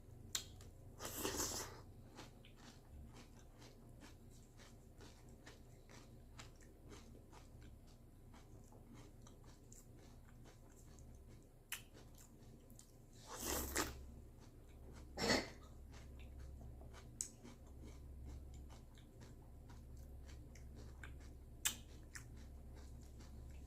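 Crunchy cereal being chewed close to the microphone: a steady patter of small crunches, with a few louder crunching bursts near the start and about halfway through, over a faint low hum.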